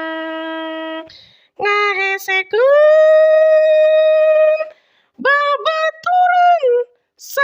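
A woman singing a Sundanese song alone, without accompaniment: a long held note ends about a second in, then, after a short pause, sung phrases with another long held note in the middle.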